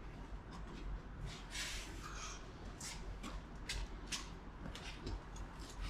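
Faint scattered light clicks and rustling over a low steady hum.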